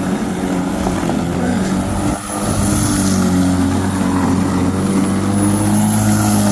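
Lawnmower running steadily while cutting grass: a constant motor hum with a faint high whine above it, briefly dipping about two seconds in.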